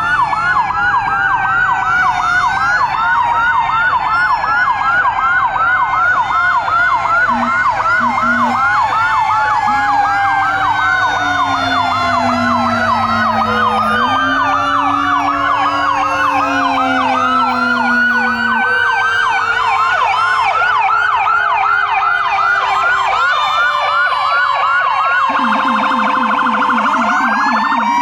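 Several fire truck sirens sounding at once: electronic sirens on a fast yelp, several sweeps a second, over slower wailing tones that glide down in pitch. A lower held tone comes in about ten seconds in for several seconds, and a low, fast-pulsing tone joins near the end.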